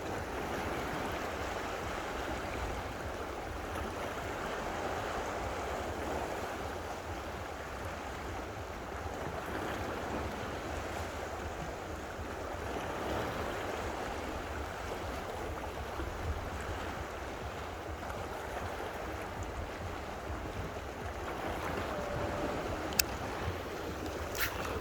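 Steady rushing of water, with a sharp click twice near the end.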